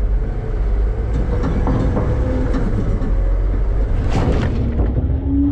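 Front-load garbage truck's engine running with a steady low rumble, while the metal hopper body rattles and clanks; one loud clank comes about four seconds in.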